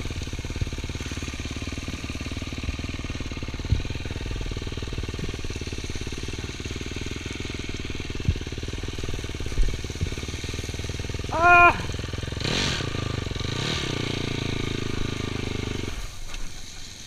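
Dirt bike engine running steadily at low revs, heard from the rider's helmet. It drops away about a second before the end. About eleven and a half seconds in, a brief high-pitched tone stands out over it.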